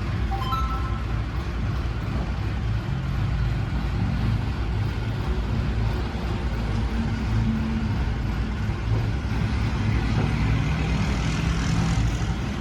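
Mahindra Arjun 555 tractor's diesel engine running steadily as a low, continuous drone. About half a second in there are three brief high tones, each a step higher than the last.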